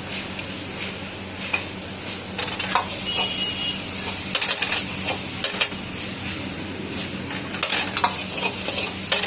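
Chicken momos sizzling in a pan as a metal spatula stirs and scrapes them, with repeated sharp clanks and scrapes of metal on the pan over the frying, and a steady low hum underneath.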